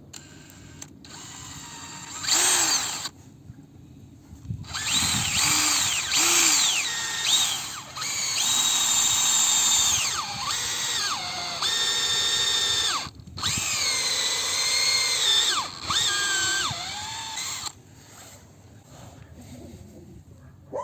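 Electric drill running in several runs, its motor whine rising and falling as the speed changes. There is a short burst about two seconds in, then longer runs with a brief stop partway.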